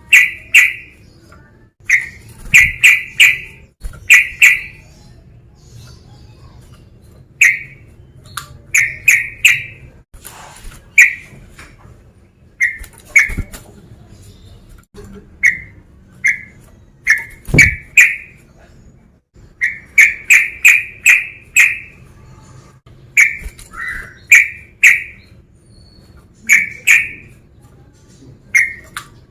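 Yellow-vented bulbul (trucuk) calling: short, bubbly, liquid notes given in quick bursts of two to five, repeated every second or two.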